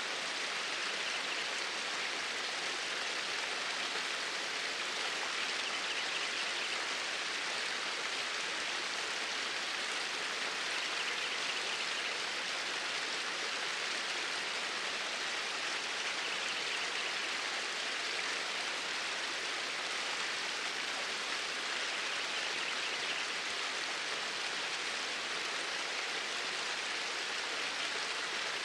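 Flowing water of a stream, a steady, even rush with no breaks.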